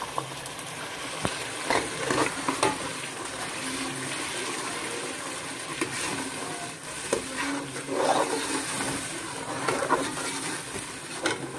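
Onion paste sizzling as it fries in hot oil in an aluminium pot, with a steel spoon stirring it and scraping and clicking against the pot now and then.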